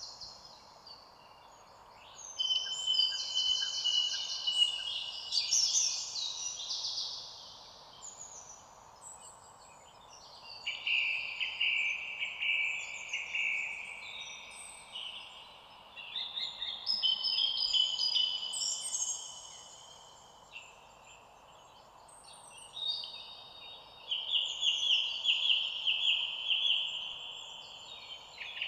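Songbirds singing in four long bursts of rapid trilled and chirping phrases, each lasting several seconds with short lulls between, over a faint steady background hiss.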